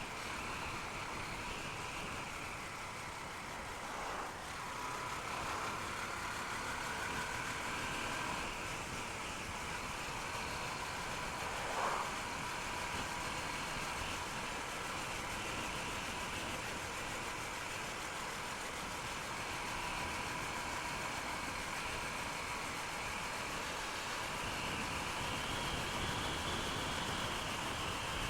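Honda Unicorn single-cylinder motorcycle engine running steadily while riding, mixed with wind and road noise. A brief sharp sound about twelve seconds in.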